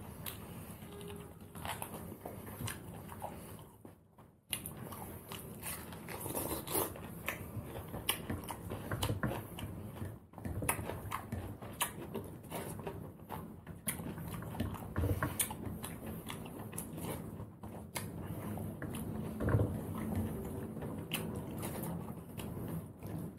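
Close-up eating sounds: mutton curry and rice eaten by hand and chewed, with many short, irregular clicks and crackles.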